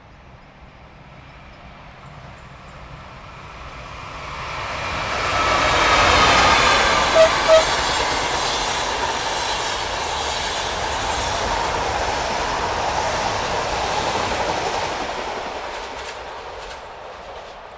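An electric train passes at speed, its rushing wheel and rail noise swelling to a peak, holding for several seconds, then fading away. Just after the loudest point there are two short, sharp pitched beeps about half a second apart.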